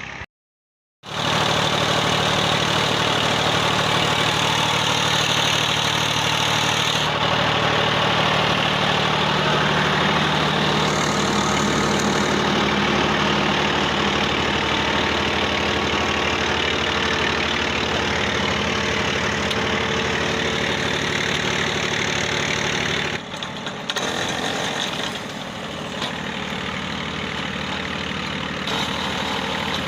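Tractor engine running steadily, driving a lever-worked clay brick-making machine off its wheel. It gets quieter and thinner about three-quarters of the way through.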